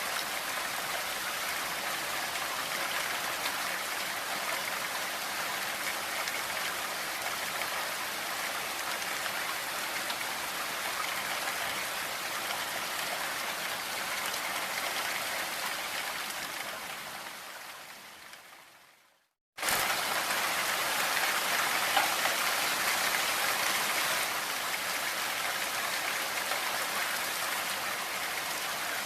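Steady rain mixed with pink noise, an even hiss of falling rain. About two-thirds of the way through it fades out to a moment of silence, then cuts back in suddenly, a little louder, as the track loops.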